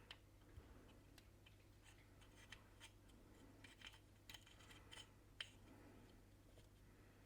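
Faint, scattered small clicks and scrapes of a microphone's metal parts and XLR connector insert being handled and eased apart, over a low steady hum.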